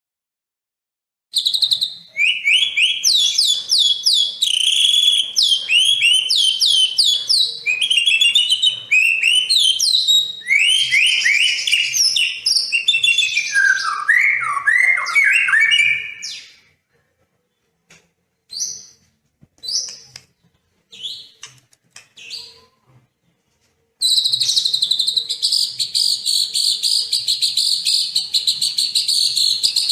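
Recorded songbird song: a rapid run of varied quick whistled and chirping notes, then a gap with a few scattered chirps. Near the end a fast, continuous buzzing trill comes in.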